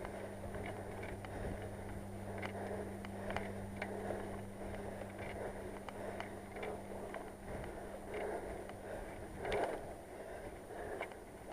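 Riding a bicycle with irregular clicking from a rear hub whose bearings are playing up, over steady tyre and wind noise, with a louder knock about two thirds of the way through.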